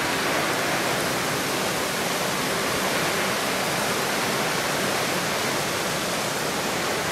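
Very heavy rain pouring steadily onto an asphalt road, an even hiss of countless drops with no breaks.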